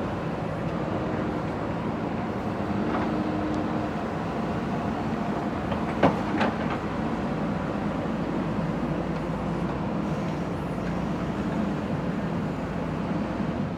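Backhoe loader's diesel engine running steadily, with two sharp metallic knocks in quick succession about six seconds in.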